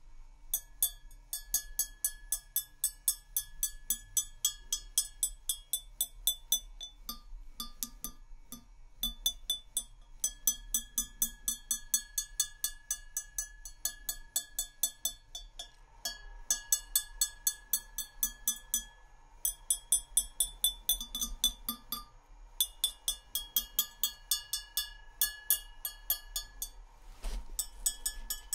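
Rapid tapping on glass, a few light taps a second in runs with short pauses, each tap ringing with a clear pitch.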